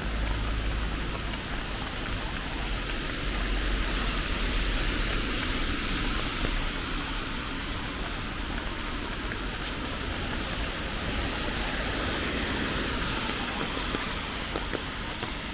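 Steady rain falling: an even, continuous hiss with a low rumble underneath.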